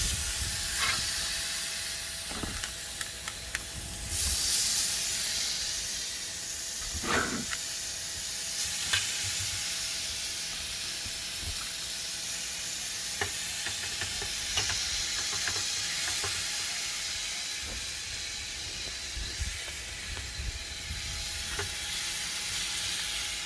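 Beef sizzling on a griddle plate over a small camping gas stove: a steady frying hiss, louder from about four seconds in, with scattered pops and spits of fat.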